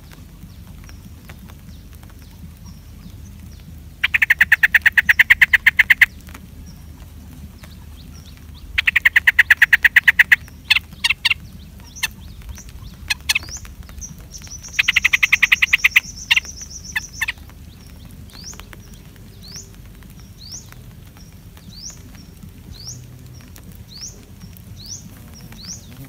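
Bulbuls calling: three loud bursts of rapid chattering, each lasting about two seconds, then a run of short rising chirps about one a second.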